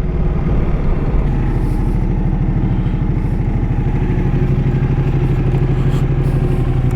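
Ducati Multistrada 1200's L-twin engine running steadily at low revs with an even pulsing beat.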